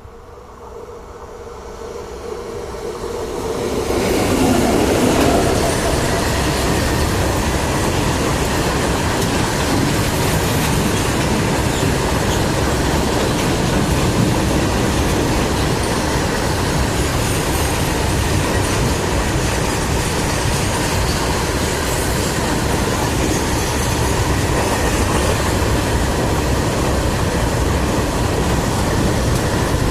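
Freight train approaching and passing close by. The sound builds over the first four seconds as the locomotive nears, then the wagons roll past in a loud, steady rush of wheel and rail noise.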